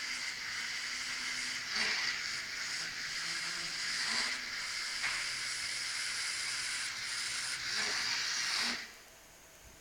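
Small electric drive motors of a Firebird V robot running with a steady high hiss, briefly changing every second or two, then stopping about nine seconds in.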